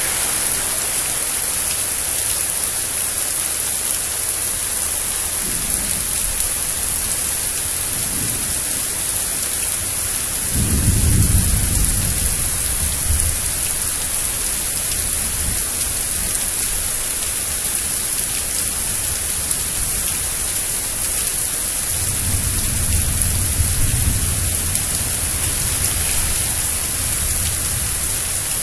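Steady rain hiss with rolling thunder: a loud low rumble about ten seconds in that lasts two or three seconds, a second long rumble a little past twenty seconds, and fainter ones before.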